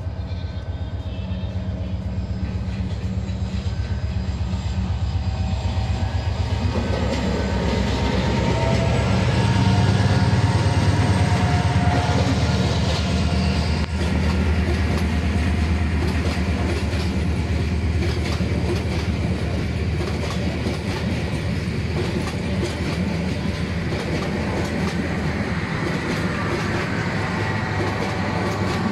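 Diesel-hauled passenger train approaching and passing. The locomotive's engine drone grows louder over the first ten seconds or so, then the coaches roll by with a steady clickety-clack of wheels over the rail joints.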